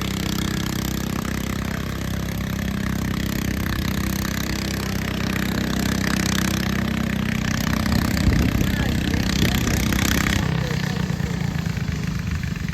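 Garden tractor engine running hard under load in a pull, growing louder toward the end, then easing off suddenly about ten seconds in.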